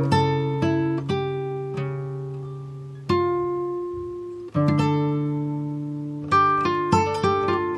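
Background music played on a plucked acoustic guitar: single notes and chords that ring out and fade, with fresh phrases about three, four and a half, and six seconds in.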